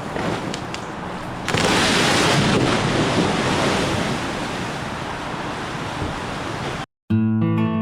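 Steady rushing outdoor noise, louder from about a second and a half in. It cuts off near the end, and after a brief gap strummed acoustic guitar music begins.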